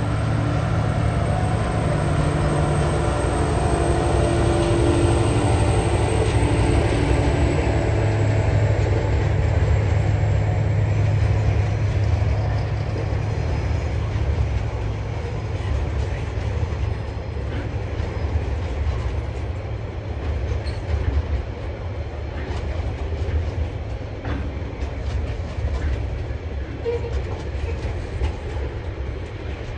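TasRail TR-class diesel-electric locomotive TR05 climbing a grade under load, its engine drone and a high whine fading over the first dozen seconds as it moves away. Loaded coal hopper and container wagons then rumble past, with scattered wheel clicks on the rails.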